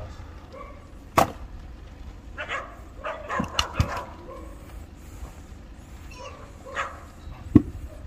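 An axe striking and splitting firewood, four sharp blows with the loudest about a second in, two close together mid-way and one near the end. A dog barks several times between the blows.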